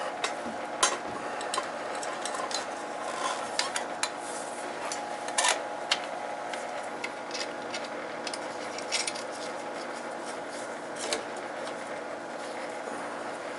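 Small metal parts and hand tools clicking and clinking against each other while wiring work is done on an oil boiler's control. The clinks come in scattered strokes, most of them in the first half, over a steady mechanical hum.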